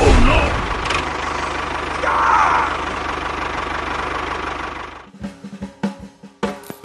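A motor running steadily with a low hum for about five seconds, with two short gliding squeaks over it. It cuts off suddenly and gives way to quick, irregular clicking and tapping with a beat.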